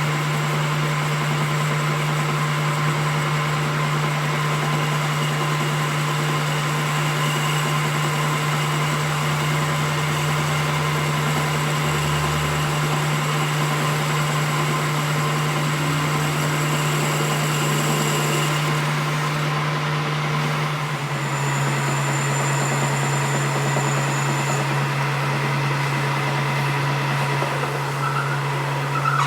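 A workshop machine running steadily, a constant low hum with a few fixed high tones above it; the sound shifts slightly about two-thirds of the way through.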